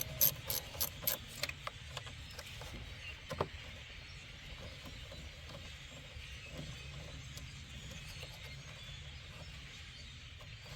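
Ratchet wrench clicking at about three to four clicks a second as a small bolt is turned. It stops about a second and a half in. Light handling noise and one sharp knock follow, about three and a half seconds in.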